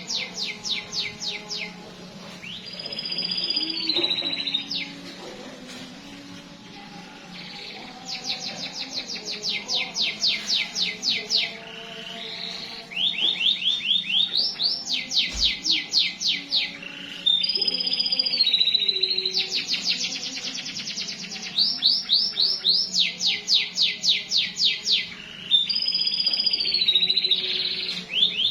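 Domestic canary singing: long rolls of rapidly repeated notes lasting a few seconds each, alternating with swooping whistled phrases.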